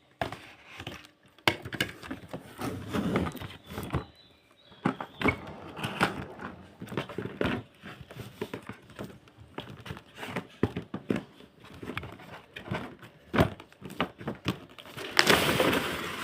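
Toy packaging being opened and handled by hand: irregular rustling of plastic and cardboard with scattered clicks and knocks, louder rustling near the end.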